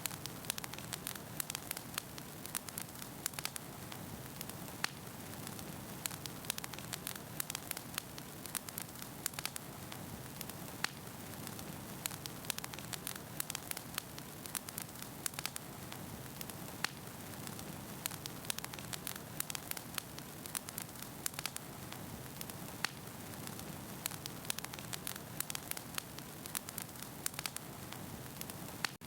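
Wood fire burning in a fireplace: a steady hiss and low rumble of flames with frequent sharp crackles and pops of the burning logs, several a second.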